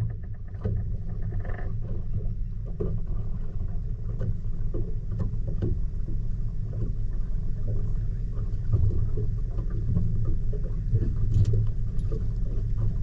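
Low steady rumble of a motorboat under way, with scattered small knocks and splashes against the hull.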